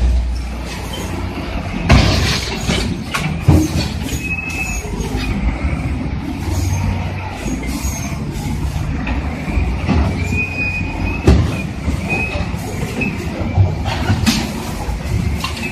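Bulldozers' diesel engines running under load, with squealing steel tracks and several loud metal knocks from the machines ramming each other, about 2, 3.5 and 11 seconds in.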